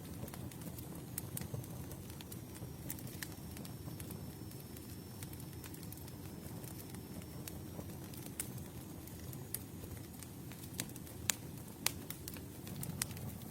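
Campfire burning: a steady low rustle of flames with scattered sharp crackles and pops of burning wood, a few louder pops near the end. A faint thin high whistle runs through the middle.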